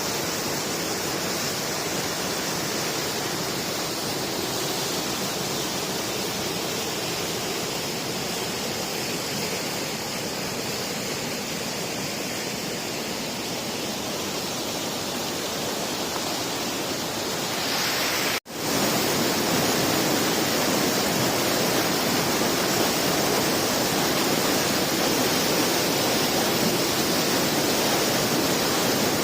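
Steady rushing of flowing river water. About two-thirds of the way through it cuts out for an instant and comes back a little louder.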